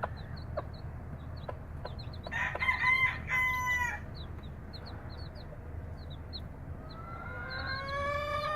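Newly hatched chicks peeping: short, high chirps repeated throughout. A rooster crows loudly about two and a half seconds in, and another long crow starts near the end.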